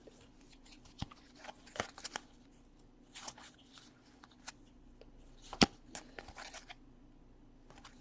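Baseball trading cards handled and flipped through by hand: scattered soft swishes and light clicks, with one sharper tap about five and a half seconds in.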